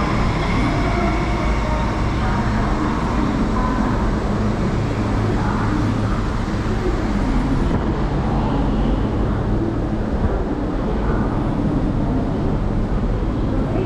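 Steady rumble of an MTR East Rail line R-Train electric train running on the line.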